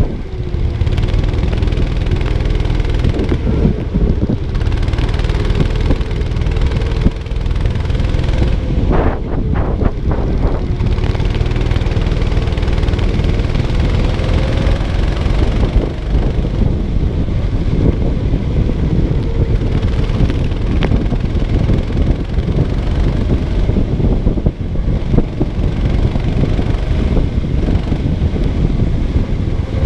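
Kart engine running under load, heard onboard, its pitch rising and falling with the throttle through the corners, with heavy wind rumble on the microphone.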